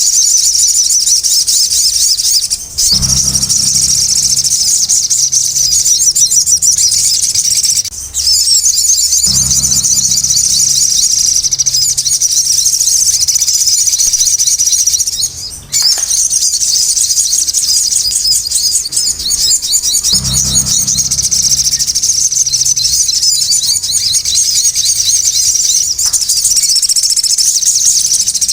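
Sogon bird calling noisily: a dense, unbroken run of rapid, high chattering notes. A low hum comes and goes underneath at times.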